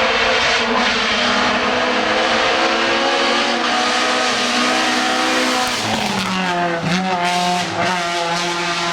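Race car engine at full throttle on a hill-climb course, its pitch climbing and dropping sharply twice at gear changes, about three and a half and six seconds in, then wavering as it revs again.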